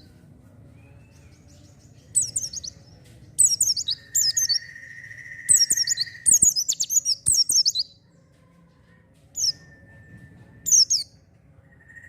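White-eye (pleci) singing in short bursts of rapid, high, falling twittering notes, several phrases in a row. About four seconds in, a steady lower whistled note is held for about two seconds.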